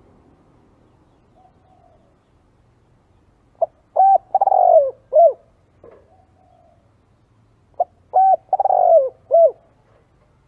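A spotted dove cooing its song twice, about four seconds apart. Each phrase is a quick run of about four short, low, arched coo notes, with the third note the longest. The recording is made for luring spotted doves.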